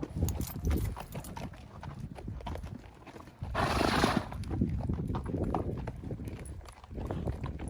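Mule hooves clip-clopping at a walk, an uneven run of steps, with a short rush of breathy noise about three and a half seconds in.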